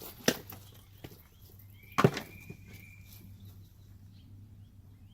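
Two sharp knocks: a light one near the start and a louder one about two seconds in, with a short high squeak around the louder one, over a low steady hum.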